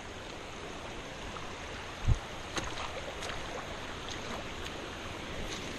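Creek water running over rocks, a steady rushing, with a single low thump about two seconds in and a few faint ticks.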